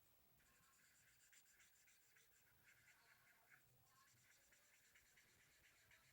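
Faint scratching of a felt-tip marker colouring on paper in short, quick back-and-forth strokes.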